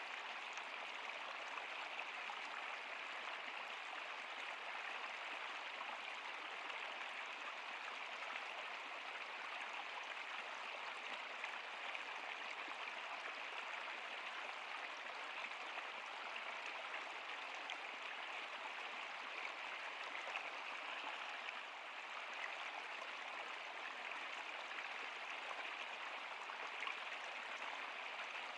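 Water of a stream running steadily, a constant even rush with no breaks.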